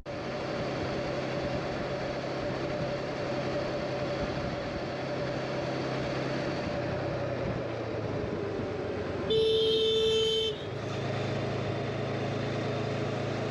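Motorcycle engine running steadily under road and wind noise while riding. A vehicle horn sounds once for about a second, a little past the middle, and is the loudest thing heard. After it the engine note comes up stronger.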